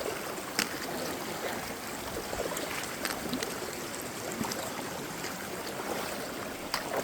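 Creek water running steadily, with a few faint clicks.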